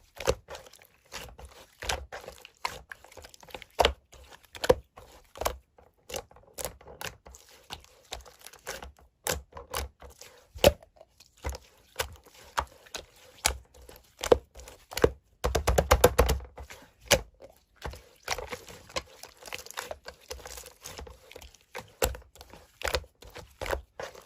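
Slime being squeezed and poked by hand, making irregular wet clicks and pops, with a quick dense run of crackling pops about two thirds of the way through.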